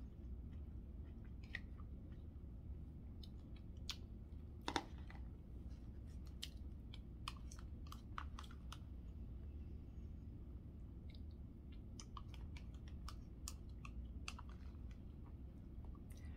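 A woman chewing a mouthful of roast, with faint scattered mouth clicks and one sharper click a little under five seconds in, over a steady low hum.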